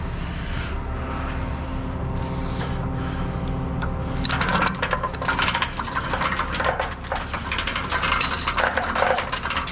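Truck engine idling steadily; about four seconds in, a continuous run of metal clinking and rattling begins, loose steel towing hardware such as pins and chain being handled.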